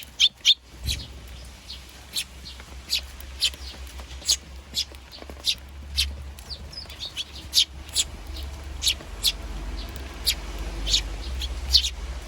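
Eurasian tree sparrows chirping: short, sharp, high chirps about one or two a second, over a steady low rumble.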